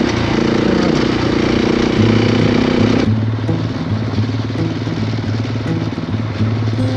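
Motorcycle engine running under way, cut off abruptly about three seconds in and replaced by background music with a stepping bass line.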